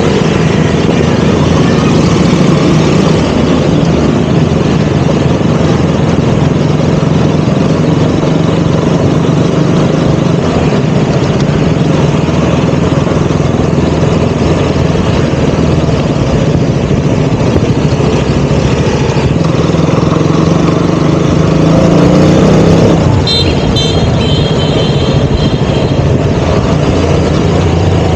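KTM Duke 200's single-cylinder engine running under way, rising in pitch and loudness about three-quarters of the way through as the bike accelerates. Just after, a short run of high-pitched beeps.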